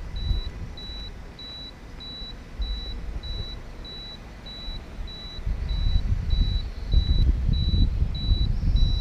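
Gusty wind buffeting the microphone, stronger from about halfway in, with a steady high electronic beep repeating about twice a second.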